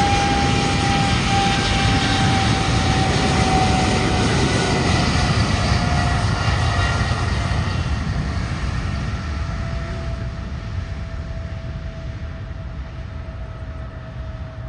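Boeing 777 twin-jet airliner at takeoff thrust on its takeoff roll. The engines' whine falls slowly in pitch as the aircraft goes past, and the roar fades as it moves away down the runway.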